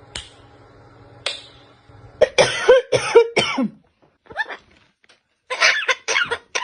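Parrot making short, raspy, cough-like sounds in bursts, after two sharp clicks near the start.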